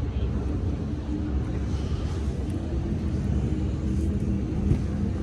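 Steady low background rumble with no clear single event.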